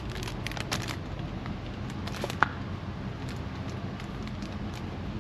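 Light clicks and rustles of small items being handled over a steady background hum, with one sharp click about two and a half seconds in.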